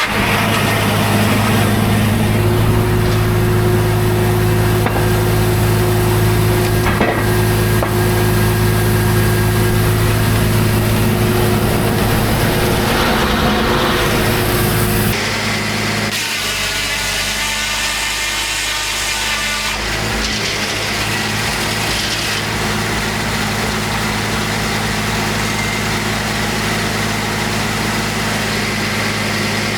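Homemade circular sawmill sawing a large white pine log: a steady drone with the blade cutting through the wood. About halfway through, the sound drops a little in level and changes, then runs on steadily.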